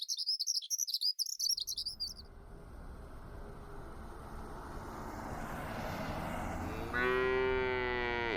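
Skylark singing a rapid, continuous run of high twittering chirps for about two seconds. It gives way to steady outdoor background noise that slowly grows, and a cow moos once, a long low call starting about seven seconds in.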